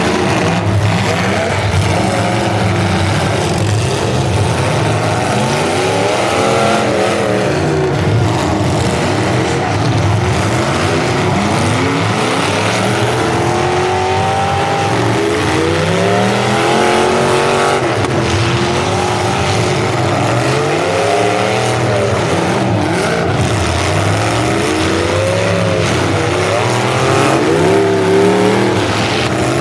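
Several full-size demolition derby cars' V8 engines revving up and down over and over, their pitches rising and falling and overlapping.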